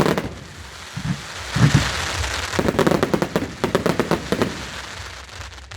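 Fireworks going off: a couple of low bangs about a second in, then a long run of rapid crackling that thins out near the end.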